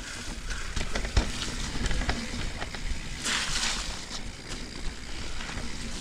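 Mountain bike riding down a wet, rooty trail: tyres rolling and knocking over roots and rocks, with rattling clicks from the bike and a low rumble throughout. A brief hiss about three seconds in.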